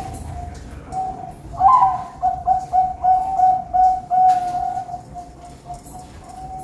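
Zebra dove (perkutut) cooing: a drawn-out song at one steady pitch that grows louder about one and a half seconds in, pulsing in quick notes about four a second, then carrying on more softly.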